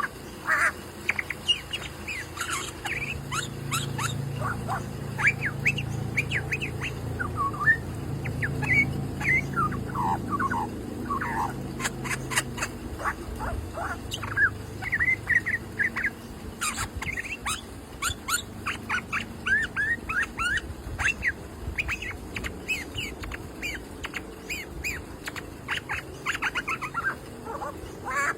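Bird calls: a rapid, continuous run of short chirps and squawks, many sliding down in pitch, over a steady low hum.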